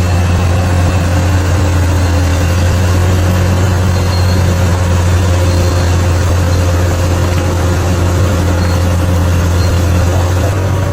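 Bulldozer's diesel engine running steadily, a deep even drone with no change in pace.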